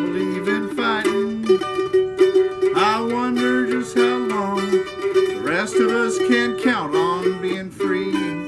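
Man singing a country song with a strummed plucked-string instrument accompanying him.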